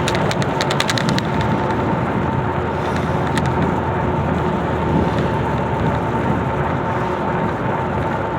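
Steady vehicle noise from driving: engine and road hum with a faint steady whine. A quick run of sharp clicks sounds in the first second and one more click sounds a little after three seconds in.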